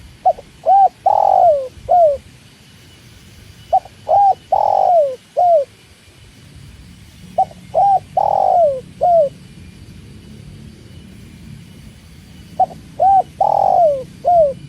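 Spotted dove (tekukur) singing its cooing song four times: each phrase is two short coos, a long drawn coo and a short final coo, repeated about every three and a half seconds. A faint low rumble runs underneath.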